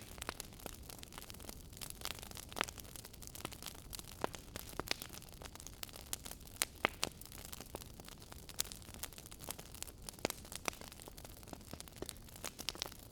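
Wood fire crackling in a fireplace: irregular sharp pops and snaps, some louder than others, over a soft steady rumble of the burning fire.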